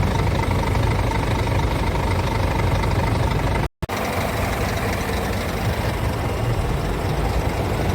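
Diesel engine of a Scania P-series truck idling steadily. The sound cuts out completely for a moment a little under four seconds in, then the idle carries on.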